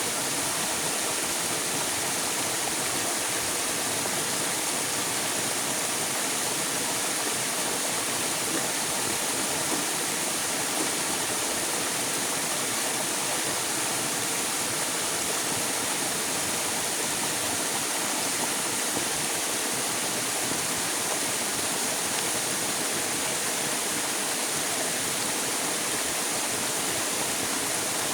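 River water running, a steady even rush with no change.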